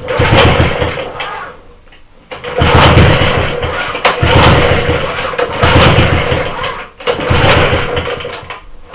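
Recoil pull-starter cranking a rebuilt 75cc Suffolk two-stroke engine, about five pulls in a row without it catching. The fuel tank has run dry.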